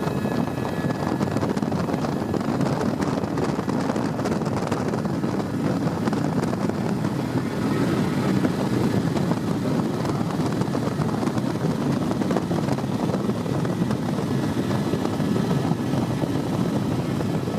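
Tour helicopter in steady flight, its rotor and engine noise a constant low drone with no change in pitch.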